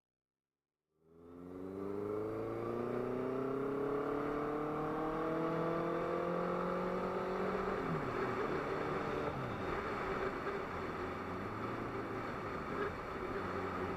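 Motorcycle engine accelerating, starting about a second in: its pitch climbs steadily for several seconds, then it settles into a steady run with wind and road noise.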